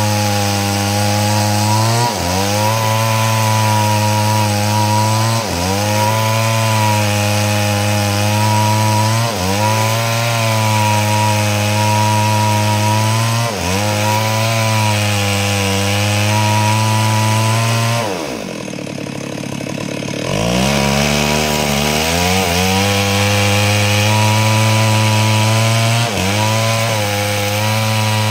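Two-stroke Stihl chainsaw running at full throttle while ripping a log lengthwise into planks, its engine note sagging under load and picking back up every couple of seconds. About two-thirds of the way through, the revs drop off sharply for about two seconds, then rise again as the saw goes back into the cut.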